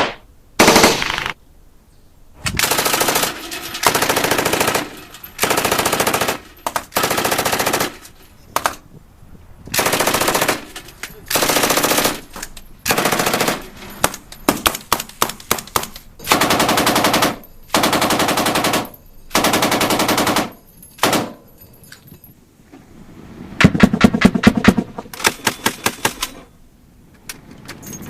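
Automatic weapon firing a long series of short bursts, each about half a second to a second long with brief pauses between. Twice the fire breaks into quick strings of separate shots.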